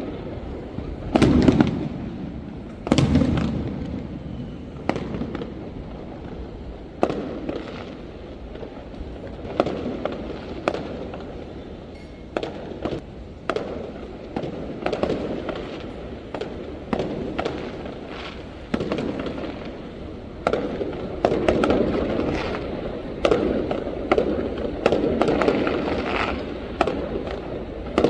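Fireworks going off: two loud bangs with an echoing tail in the first three seconds, then a steady run of sharp cracks and pops.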